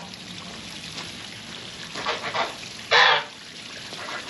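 Domestic goose honking: a short harsh call about two seconds in, then a louder one about three seconds in, over a steady low hiss.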